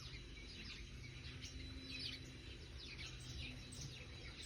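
Garden songbirds singing, a run of quick falling chirps repeated every second or so, over a faint low background rumble.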